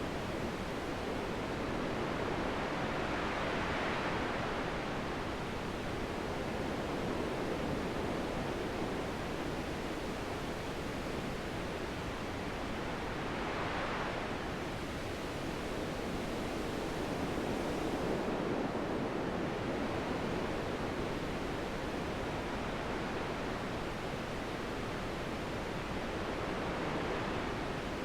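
Steady wind rising and falling in slow gusts, with brighter whooshing swells about four seconds in and again around fourteen seconds.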